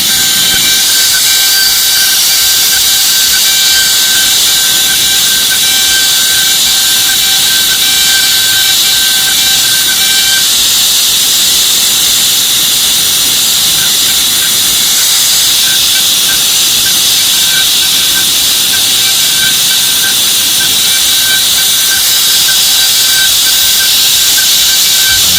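CNC milling machine cutting aluminium: a steady high-pitched spindle whine with several tones over a loud, even hiss.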